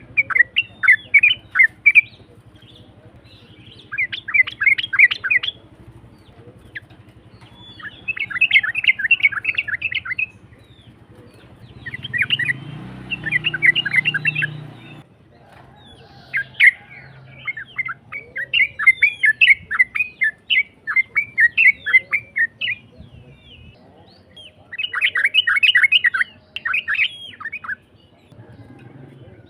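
Yellow-vented bulbul (trucukan) singing: about six bursts of fast, rough chattering notes, each a couple of seconds long and one running several seconds, with short pauses between. This is a lure song meant to set caged bulbuls singing.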